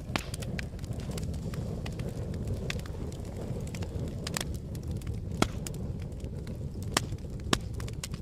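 Campfire burning with a steady low rumble of flames and scattered crackles, a few sharper pops from the burning wood about five, seven and seven and a half seconds in.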